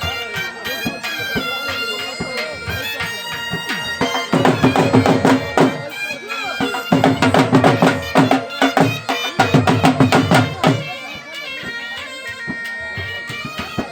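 Bagpipe music playing a melody over a steady drone, with a drum joining in quick strokes from about four seconds in until about eleven seconds.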